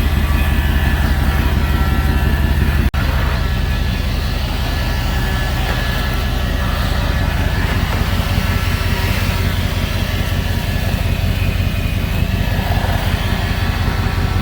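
Steady engine idle, most likely the 2003 Chevrolet Silverado 1500HD's 6.0-litre V8, with a deep, even low note throughout. The sound cuts out for an instant about three seconds in.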